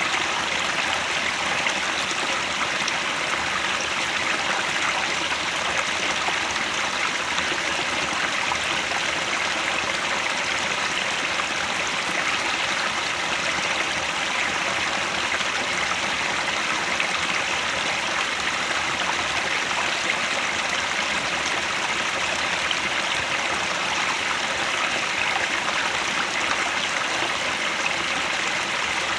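Mountain headwater stream flowing over rocks, a steady rushing and babbling of water with no change.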